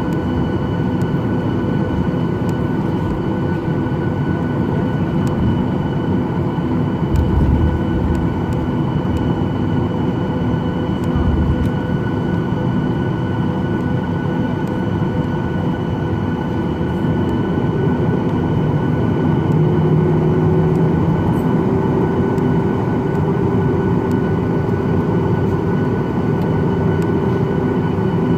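Boeing 737-800 cabin sound: the CFM56-7B jet engines running steadily with a constant whine, heard from a seat inside the cabin. Two low thumps come about seven and eleven seconds in, and a lower hum joins about two-thirds of the way through.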